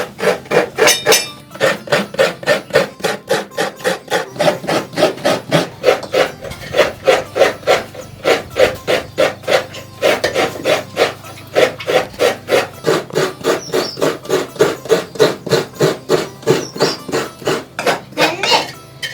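Coconut flesh being grated on a hand coconut scraper: a fast, even run of rasping strokes, about three or four a second, with a brief pause midway.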